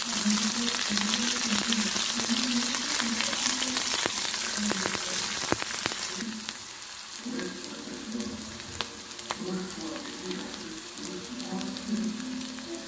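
Thinly sliced onion frying in hot oil in a pan: a steady sizzle that turns quieter about halfway through, with a few sharp clicks along the way.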